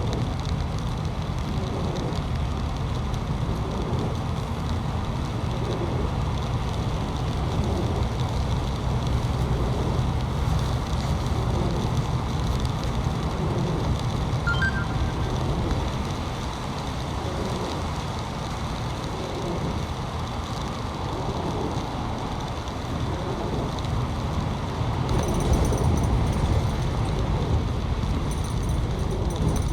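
Steady low rumble of road vehicles in motion, with a noisy haze over it and faint high steady tones joining near the end.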